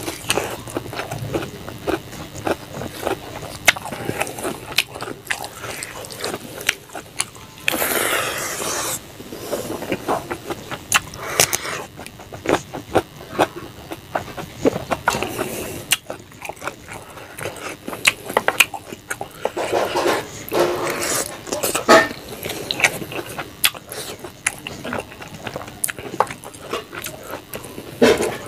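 Close-up sounds of a person eating rice and fish curry by hand: wet chewing with frequent lip-smacking clicks, and a longer hissing sound about eight seconds in.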